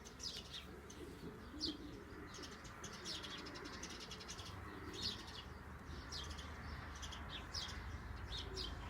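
Faint background birdsong: many short, high chirps scattered throughout, with pigeons cooing low and soft underneath.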